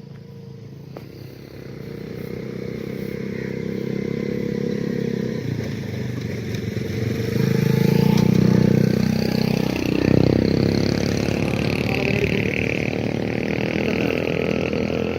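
A motor vehicle engine running steadily and growing louder over several seconds.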